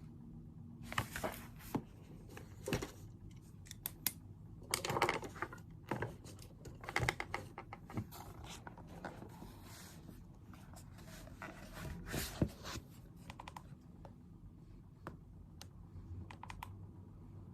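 Sounds of work at a study desk: irregular clicks, taps and short rustles of small objects being handled, heaviest in the first two-thirds and sparser near the end.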